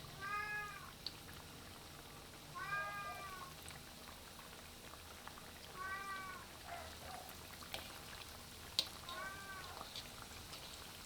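A cat meowing four times, each meow a short call that rises and falls in pitch, about three seconds apart, with faint clicks in between.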